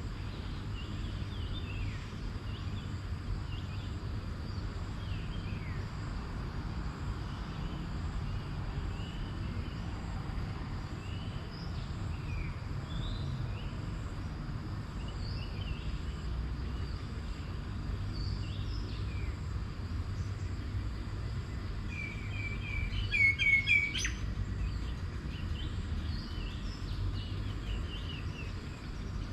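Several wild birds chirping with short scattered calls, and one bird giving a louder quick run of repeated notes about three-quarters of the way through. A steady low rumble runs underneath.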